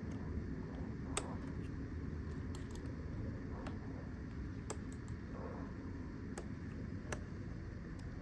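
Scattered light clicks and taps of plastic steering-wheel trim and button parts being handled and pried apart, about half a dozen in all, over a steady low rumble.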